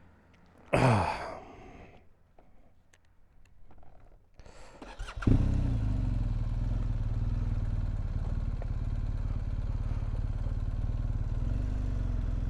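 BMW R1250GS Adventure's boxer-twin engine cranking with a few clicks, catching suddenly about five seconds in, then idling steadily. About a second in, a short loud sound falls sharply in pitch.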